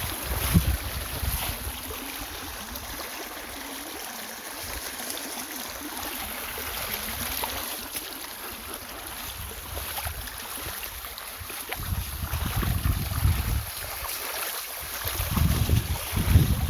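Flowing river water, a steady rushing, with wind buffeting the microphone at times, strongest in the last few seconds.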